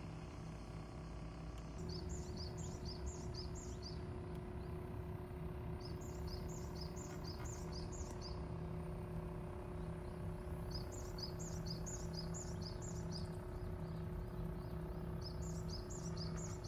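A bird calling in four bouts of rapid, repeated high chirps, over a steady low hum.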